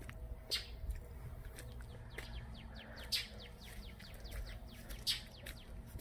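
Birds chirping: scattered short high calls, with a quick run of falling chirps about two seconds in, over a low steady rumble.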